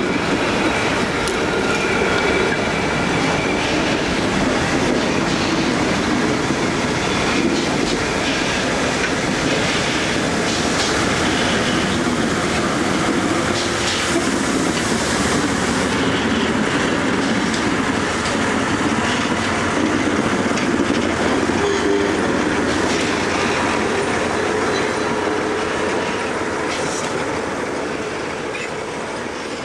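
Museum train of vintage passenger coaches being pushed slowly backwards over a level crossing, wheels clicking over rail joints with occasional squeal. Its diesel and steam locomotives, pushing at the rear, come past near the end as the sound begins to fade.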